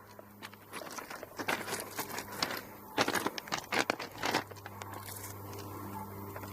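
Irregular rustling and crackling, densest in the middle, over a steady low hum that comes up near the end.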